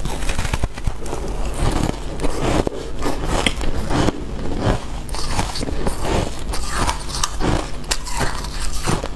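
Freezer frost being bitten and chewed: a run of crisp, irregular crunches, a few each second.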